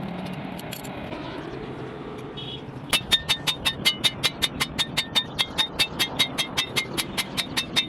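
A steady machine hum, then from about three seconds in, rapid hammer blows on a steel chaff cutter blade, about five a second, each with a ringing metallic note.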